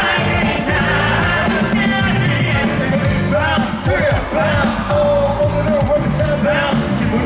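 Live concert music: male group vocals singing over a loud band backing with a steady beat, heard through the concert sound system from within the crowd.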